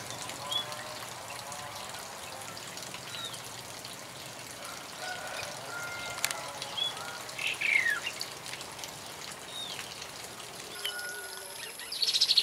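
Birds in an aviary calling: short chirps sliding downward in pitch every few seconds over a steady background hiss, with a louder, rapid trill near the end.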